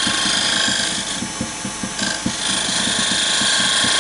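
Wood lathe running while a turning tool cuts into the spinning wood of a small chess piece, smoothing its head with a steady scraping hiss. The cutting sound drops away briefly twice as the tool eases off the wood.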